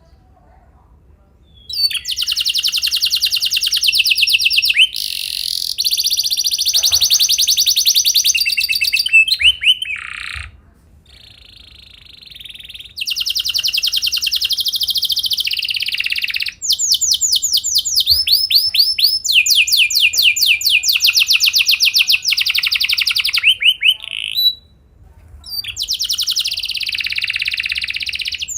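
Domestic canary singing long rolling trills of rapid repeated notes, in several phrases broken by short pauses. The song starts about two seconds in, and a run of fast downward-sweeping notes comes around the middle.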